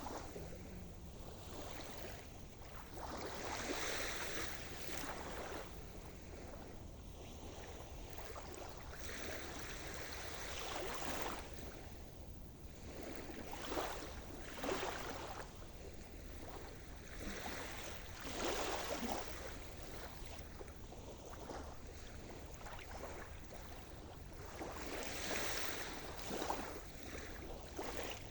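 Sea surf: waves breaking and washing up the shore in irregular swells every few seconds.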